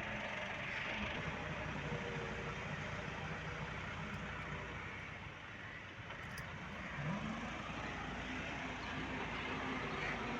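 An engine running steadily over a constant background noise, with its pitch rising about seven seconds in.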